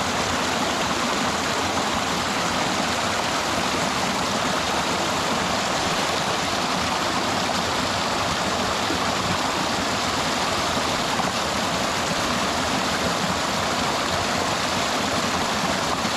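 Flowing water from a stream, a steady, unbroken rush.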